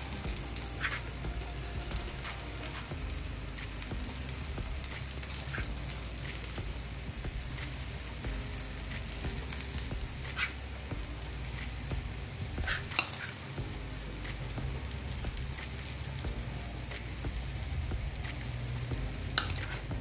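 Batter sizzling gently in a little oil on a hot tawa, with a few light taps and scrapes of a plastic spoon as paneer stuffing is spread over it.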